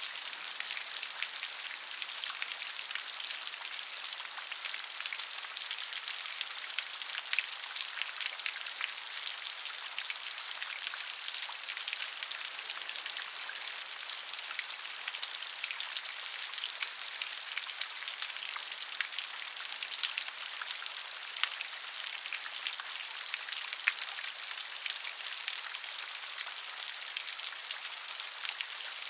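Steady rain, a constant hiss of falling rain with many small drop ticks and an occasional louder drop.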